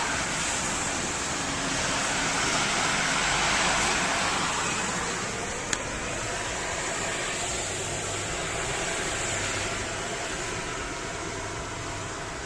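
Steady hiss over the low hum of a car's idling engine, heard from inside the car as it waits at the automatic car wash. The hiss swells a little two to four seconds in, and there is one sharp click just before the middle.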